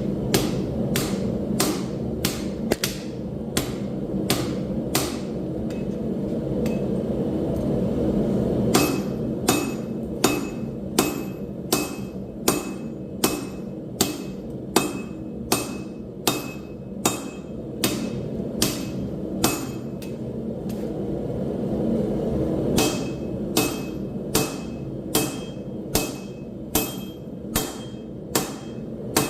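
Hand forging on an anvil: a hammer strikes hot steel in a steady rhythm of about one and a half blows a second, with a faint metallic ring after each blow. The blows stop twice for a few seconds, and a steady low hum runs underneath.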